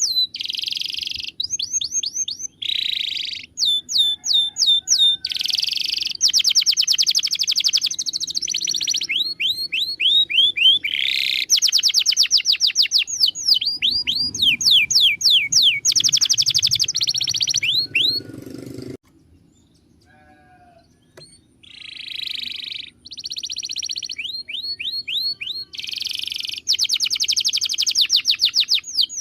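Domestic canary singing: phrase after phrase of fast, repeated sweeping notes alternating with buzzy rolls. The song breaks off for about two seconds a little past the middle, then resumes.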